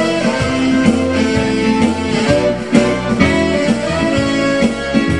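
A band playing an instrumental break of an up-tempo song, with guitar to the fore over a steady beat and no singing.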